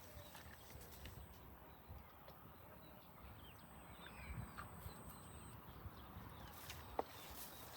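Faint, scattered hoof clops of cattle walking, with a few faint chirps and one sharper click about seven seconds in.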